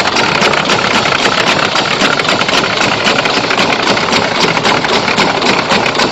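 Large muffled engine-driven pump unit running steadily and loudly, a dense rattling noise with no clear engine note.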